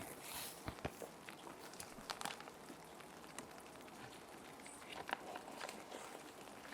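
Clear plastic sheet protectors crinkling and rustling in scattered soft clicks as paper sheets are slid and handled, over a steady hiss of rain.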